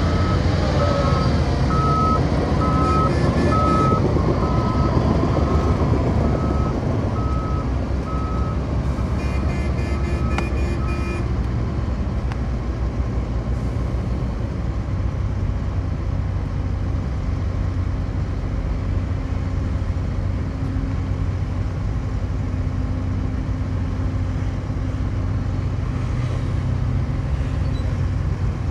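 A heavy construction machine's diesel engine runs steadily. A reversing alarm beeps about once a second over it and stops about 11 seconds in.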